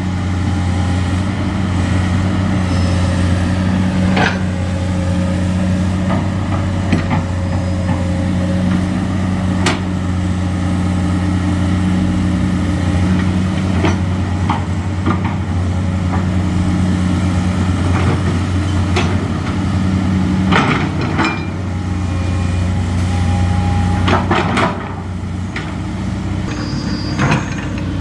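Nissan Diesel truck's diesel engine running steadily at a low idle-like hum, with sharp knocks and clanks at irregular intervals.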